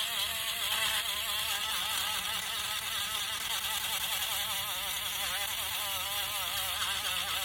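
Electric power sander running against wood, a buzzing whine whose pitch wavers continuously up and down.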